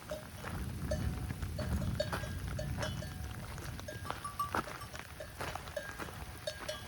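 Bells on grazing livestock clanking irregularly: many short metallic clinks, some overlapping, over a low rumbling background.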